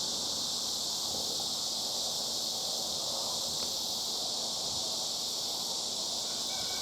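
Steady, high-pitched drone of a summer insect chorus that holds level throughout.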